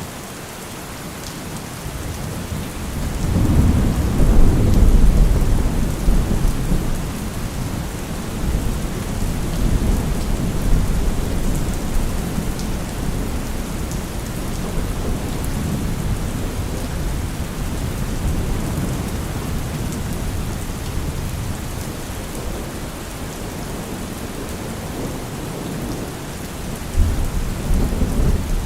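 Steady rain falling, with a long rolling rumble of thunder that swells about three seconds in and slowly dies away; another thunder rumble begins near the end.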